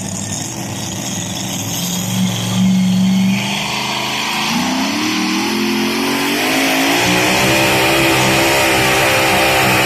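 Two-wheel-drive pulling truck's engine running, then revving up from about four and a half seconds in, the pitch climbing and holding high.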